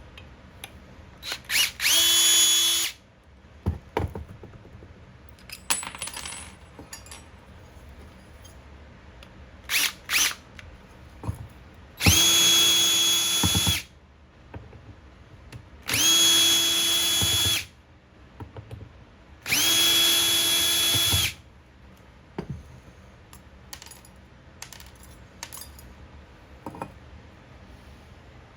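Electric drill run in short bursts while taking apart an aluminium fog light: five runs of one to two seconds, each spinning up quickly to a steady whine and stopping, the longest near the middle. Light clicks and clinks of small parts between the runs.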